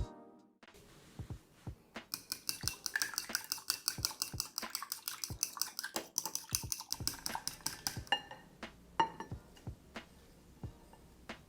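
A utensil beating rapidly against the side of a bowl, mixing batter, several strikes a second for about six seconds, followed by a few scattered clinks.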